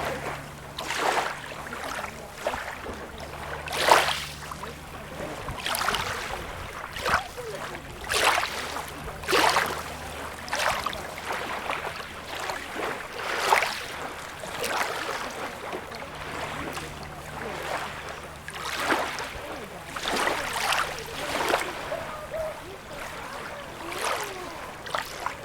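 Small waves lapping and splashing at the water's edge, with a quick run of short splashes about once a second.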